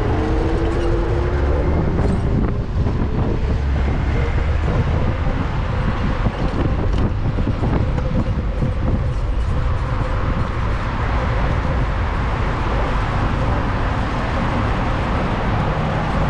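Steady street-traffic noise and low rumble, picked up by a GoPro's microphone on a moving bicycle.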